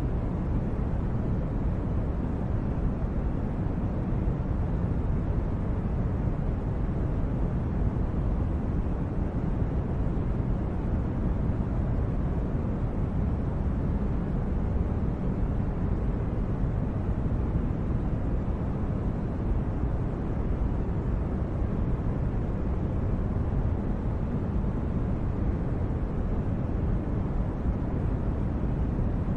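Steady, even low rumbling noise with no tones, clicks or changes: a constant sleep-background noise bed.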